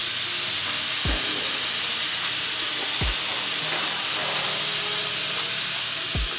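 Shrimp sizzling as they fry in a hot skillet: a steady hiss, with a few soft low thumps.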